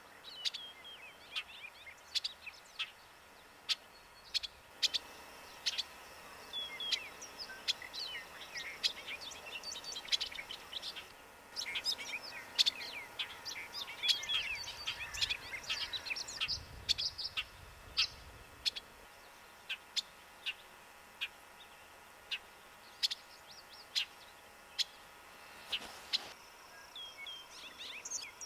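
Several birds chirping and twittering, busiest in the middle, with short sharp clicks throughout.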